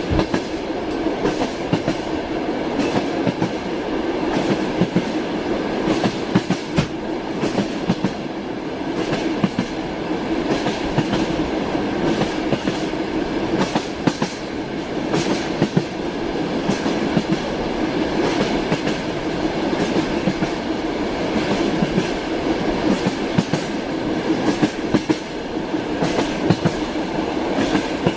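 Passenger train running on the rails: a steady rumble with the clatter of the wheels over the rail joints, many sharp knocks coming unevenly throughout.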